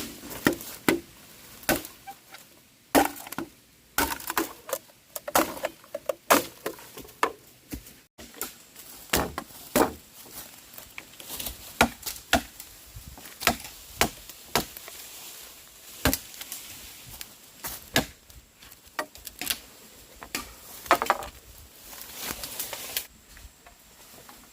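Repeated sharp wooden knocks and cracks, irregularly spaced, of wood being chopped and worked by hand.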